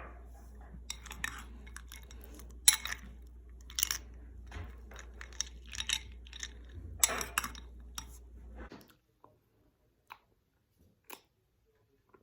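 A spoon clinking and scraping in a ceramic bowl of fruit, ice cubes and coconut water, with crunching and chewing, in irregular clinks. The loudest clinks come about three and seven seconds in, and it stops about nine seconds in, leaving only a few faint clicks.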